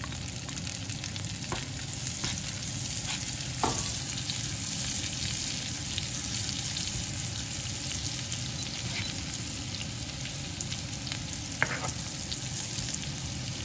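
Chopped garlic and onions sizzling in melted margarine and olive oil in a nonstick frying pan while being stirred with a plastic spoon. A few light clicks sound over the sizzle, the sharpest about four seconds in and near the end.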